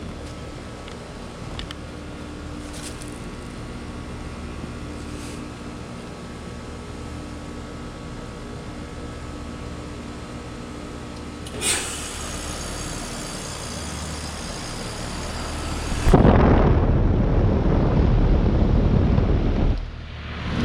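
ICP heat pump outdoor unit in a defrost cycle: a steady hum from the running unit, then about twelve seconds in a sudden sharp whoosh as the reversing valve shifts, followed by hissing refrigerant. About four seconds later a much louder rushing noise starts, breaks off briefly near the end, and the low steady hum comes back in.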